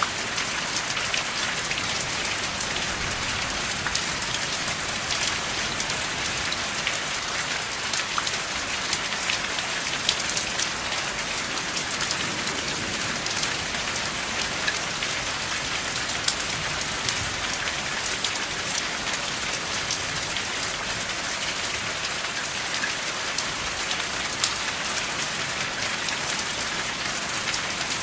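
Steady rain falling without thunder: an even, dense hiss with many sharp drop ticks scattered through it.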